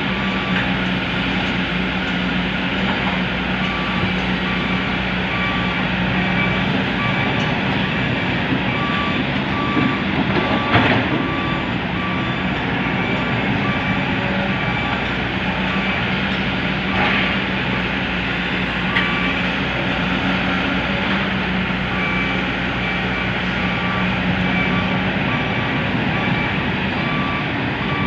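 A dump truck's reversing alarm beeps in an even repeating rhythm over a diesel engine running steadily. The beeping stops for a few seconds past the middle, then resumes. There is a single sharp knock about eleven seconds in.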